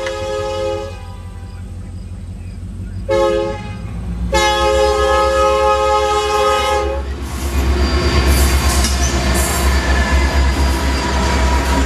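Diesel freight locomotive's air horn sounding for a grade crossing: the end of a long blast, a short blast about three seconds in, and a long blast that ends about seven seconds in. Then the locomotives and the double-stack container train pass close by, with a loud low engine rumble and wheels clattering over the rails.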